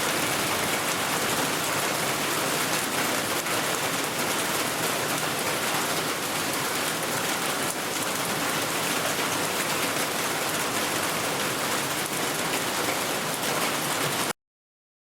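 Steady rain falling, an even hiss that cuts off abruptly near the end.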